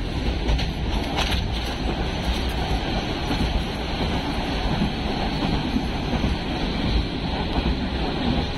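Passenger train carriage on the move: a steady rumble of wheels on the rails, with wind rushing in through the open windows.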